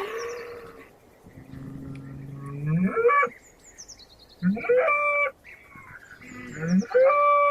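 Cattle mooing, several calls in turn: a long low moo that rises at its end, then two calls that climb and hold, about five and seven seconds in. Faint high chirps sound above them.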